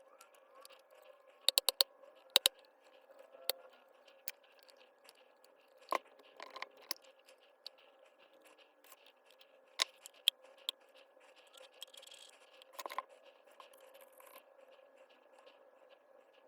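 Handling noise from small parts and hand tools during disassembly of a hammer drill: sharp clicks and taps with some light scraping. There is a quick run of four clicks about a second and a half in, then two more, with single taps scattered after.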